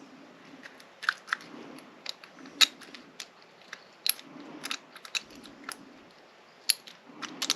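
Small, sharp metal clicks and ticks at irregular intervals as a lock cylinder is worked with a shim to free its plug, with soft handling rustle between them. The plug is sticking and will not slide out.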